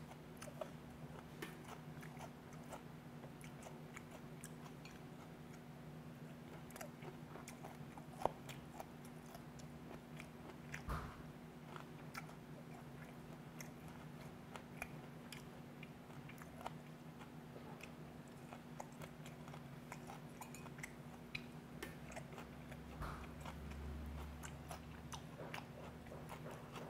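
Close-miked chewing of a mouthful of seasoned skate salad with vegetables: soft, wet mouth clicks and small crunches, with a few louder clicks. A steady low hum runs underneath.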